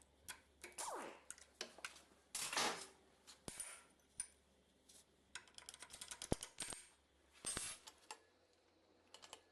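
Faint metallic clicks and clinks from hand tools on the parts of a diesel engine as it is unbolted, with a quick run of ticks about six seconds in.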